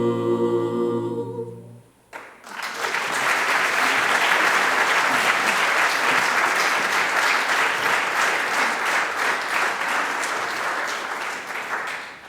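An a cappella choir holds its final chord, which cuts off about two seconds in. After a brief pause an audience applauds for about ten seconds, the clapping fading near the end.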